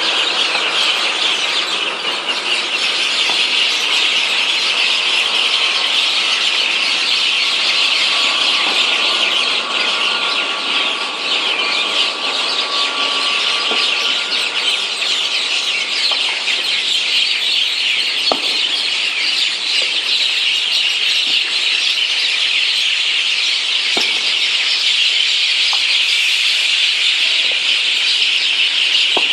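A flock of birds gathered in a tree, chattering and calling all at once in a dense, unbroken chorus of high-pitched squeaks and chirps.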